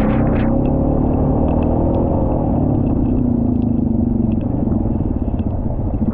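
2020 Honda Rubicon quad's single-cylinder engine running steadily under load, its pitch wavering slightly as the quad struggles and fails to make it up a muddy climb.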